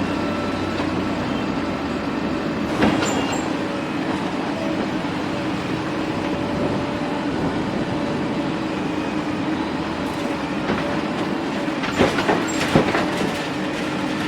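A heavy machine, such as demolition machinery, running steadily, with sharp knocks and clanks about three seconds in and twice near the end.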